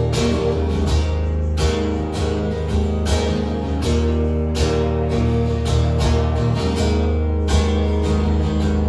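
Instrumental break of a live song: guitar strummed in a steady, even rhythm, with no singing.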